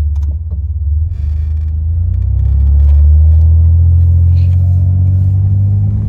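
Ford Ranger pickup's engine and road rumble heard from inside the cab while driving: a low drone that rises in pitch and gets louder over the first three seconds as the truck speeds up, then holds steady.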